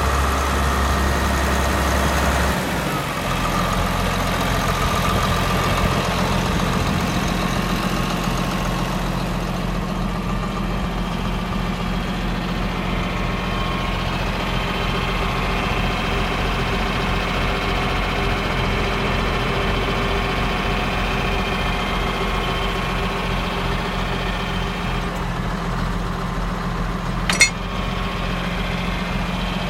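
John Deere 4450 tractor's six-cylinder turbocharged diesel running steadily at idle. Its tone shifts slightly about two and a half seconds in, and there is one sharp click near the end.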